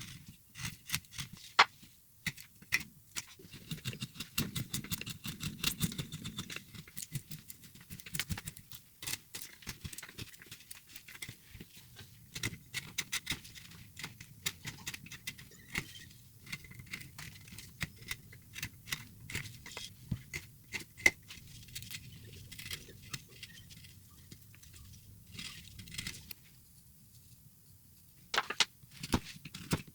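Hand carving tools cutting into a block of wood, a quick irregular run of crisp short cuts as chips are pared away. The cutting eases off briefly near the end, then a few sharper cuts follow.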